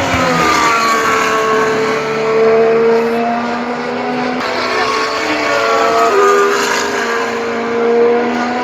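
Honda Formula 1 car's 1.6-litre turbocharged V6 hybrid engine at racing speed, its high note holding and sliding in pitch. It drops abruptly at a gearshift about six seconds in.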